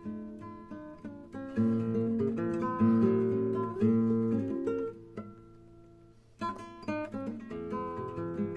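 Acoustic guitar playing chords, strummed and plucked. About five seconds in it thins to a single held note for a moment, then a sharp strum brings the chords back.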